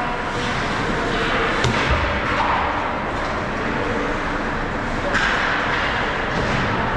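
Ice hockey play in an arena: a steady wash of rink noise with a sharp knock about two seconds in and lighter knocks later.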